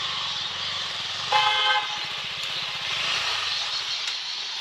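A short vehicle horn toot, about half a second long and a little over a second in, over low rumbling vehicle noise.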